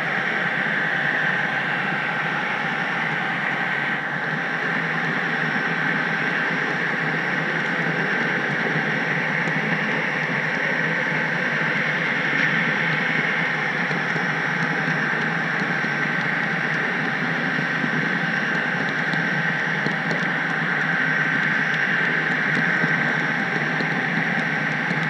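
HO-scale model train rolling along the track, heard from a camera riding on the caboose: a steady running rumble and rattle with a constant thin whine.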